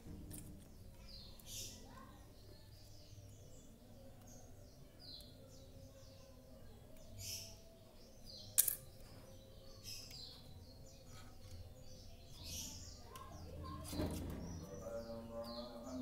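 Small birds chirping over and over, short high chirps scattered through the background, with one sharp click a little past halfway.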